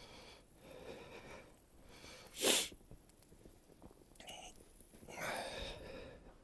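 A person sneezes once, sharply, about two and a half seconds in, with quieter breathy sounds before and after.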